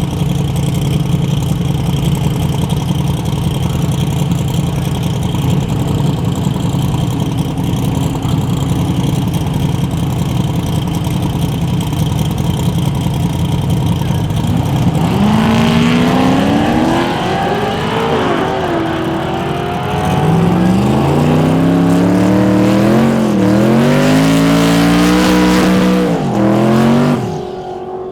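V8 drag car engine idling steadily, then from about halfway in accelerating hard, its pitch climbing and dropping back through several gear changes before the sound stops suddenly near the end.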